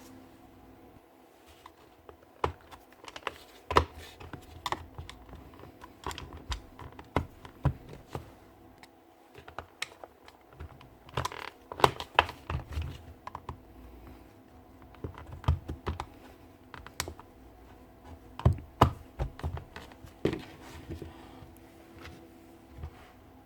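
Irregular light clicks, taps and knocks of small parts and hand tools being handled during the strip-down or reassembly of a cordless SDS drill, a few sharper knocks standing out among them.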